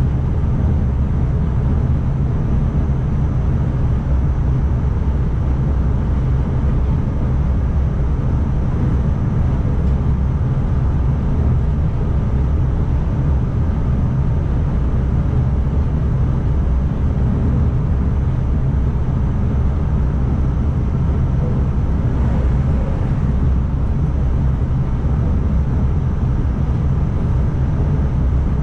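Steady low rumble and hum of an ICMm electric multiple unit running along the track, heard from inside the driver's cab.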